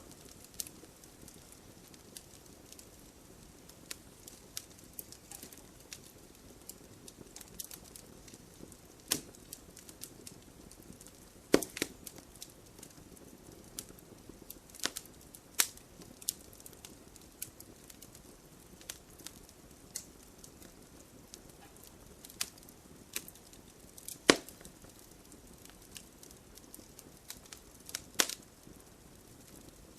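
Campfire burning with a soft steady hiss and scattered crackles. A few louder sharp pops come about a third of the way in and again past three quarters of the way.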